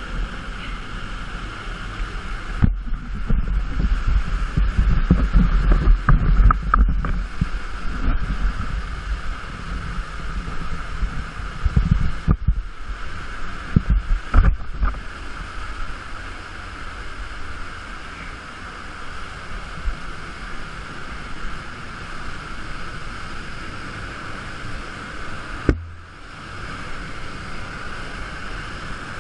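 Steady rush of a waterfall and its churning plunge pool heard up close, with heavy low buffeting and splashing on the microphone through roughly the first half.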